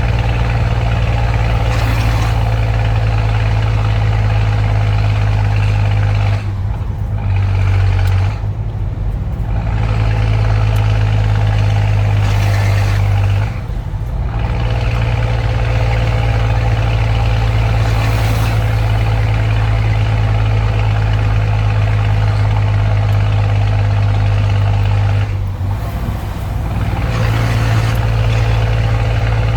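Scania truck engine with a straight-through exhaust, running loud and steady with a deep, even drone. The sound dips and comes back several times, about 6 s, 13 s and 25 s in.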